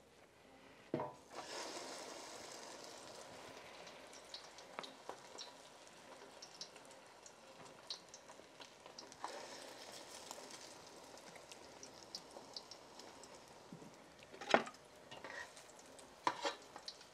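Egg-battered chiles rellenos frying in hot oil in an enamel pan: a sizzle starts about a second in as a chile goes into the oil and carries on steadily. Near the end come a few sharp clacks of a metal spatula against the pan.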